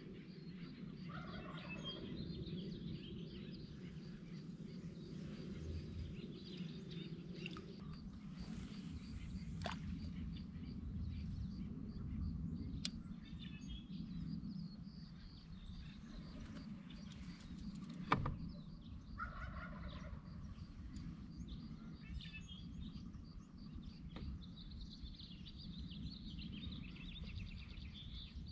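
Birds calling now and then over a steady low background noise, with one sharp tap about eighteen seconds in.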